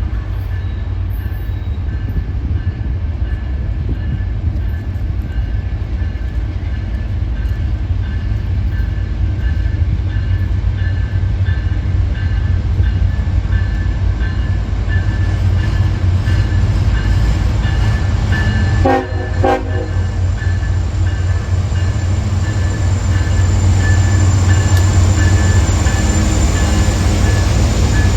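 Train passing close by: a heavy, steady low rumble that slowly grows louder, with a repeated high ringing tone running through it.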